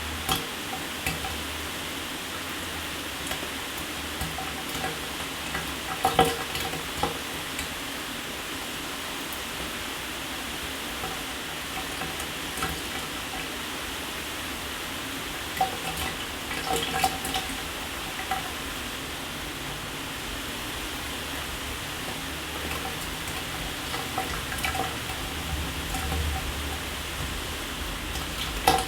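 Shower running: a steady hiss of water spray, with scattered sharper clicks and patters from the falling water every several seconds.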